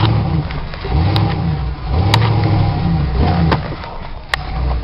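Lifted 1996 Ford F-150's engine, breathing through headers and a Flowmaster straight-pipe exhaust, revving up and down several times under load in four-wheel drive. Several sharp clicks or knocks come over it about once a second.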